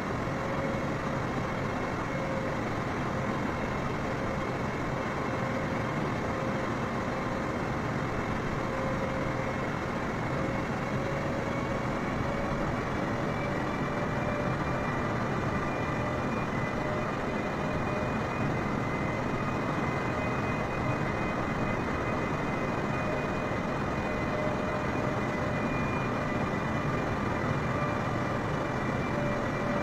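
Jet airliner engines running at climb power: a steady, dense drone with a few steady tones that creep slightly up in pitch partway through.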